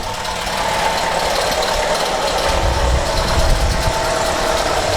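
Chevrolet Captiva engine idling with a very loud timing-chain noise.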